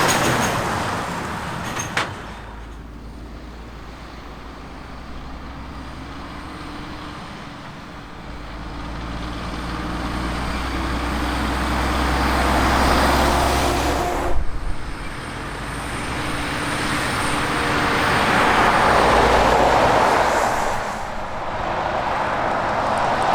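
Heavy trucks driving past one after another, diesel engine rumble and tyre noise swelling as each approaches and fading as it goes by. The sound changes abruptly with a short sharp click about 2 seconds in and again about 14 seconds in.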